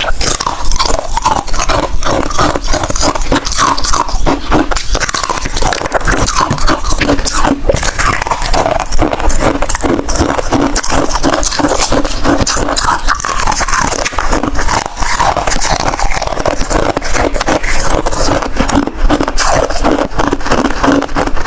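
Close-up crunching and chewing of hard freezer ice: dense, continuous crackling bites with no pauses.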